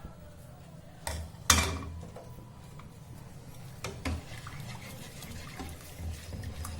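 Semolina being stirred into boiling water in a kadai with a spoon: scraping and stirring, with a few knocks of the spoon against the pan, the loudest about a second and a half in.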